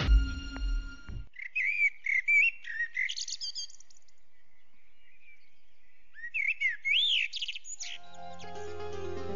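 A short musical phrase cuts off about a second in, then a small bird chirps in quick up-and-down calls, in two bouts with a pause between. Background music comes in near the end.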